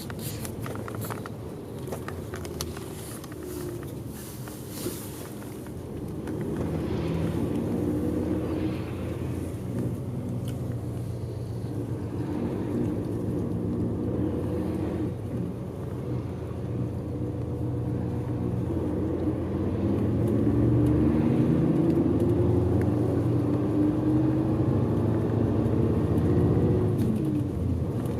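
Diesel bus engine running under way, heard from inside the passenger cabin, its pitch rising and falling as the bus accelerates and changes gear, over steady road noise. It grows louder about twenty seconds in.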